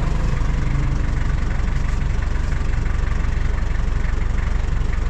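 Truck engine idling steadily with a fast, even pulse.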